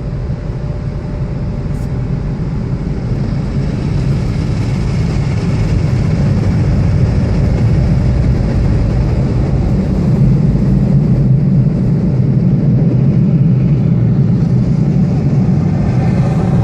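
Automatic car wash air dryers blowing on the car, heard from inside the cabin: a loud, steady rush of air over a deep rumble, growing louder over the first few seconds.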